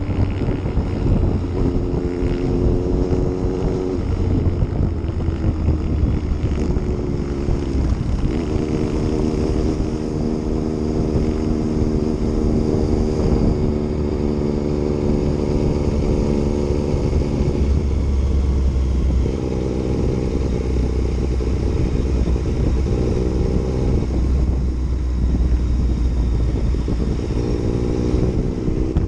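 Yamaha MT-09's three-cylinder engine running under way, heard from the bike as it is ridden, its engine note breaking off and settling at a new pitch several times.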